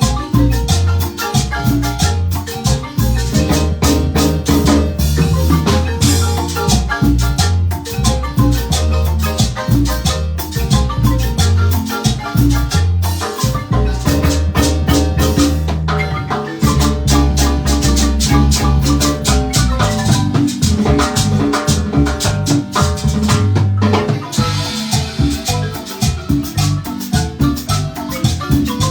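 Marimba ensemble playing lively dance music: fast mallet notes over a steady bass line and percussion beat.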